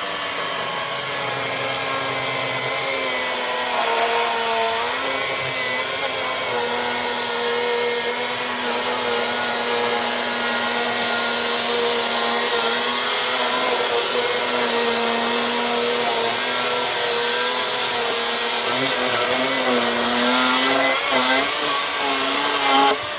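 Milwaukee M18 16-inch battery chainsaw running flat out and cutting through a small log, a steady electric motor whine mixed with chain-on-wood noise. The pitch dips briefly under load a few seconds in and again near the end, then the trigger is released right at the end.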